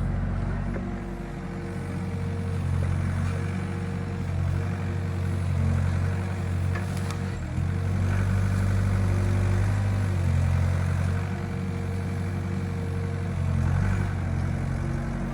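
Excavator's diesel engine running steadily, its note rising and falling as it works.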